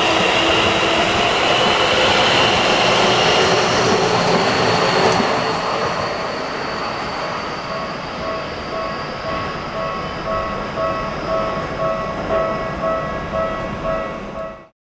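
Keisei 3100-series electric train with a Toyo hybrid-SiC VVVF inverter: the inverter's whining tones over wheel and rail noise. The sound is loud for about five seconds, then grows quieter and more even, and cuts off abruptly just before the end.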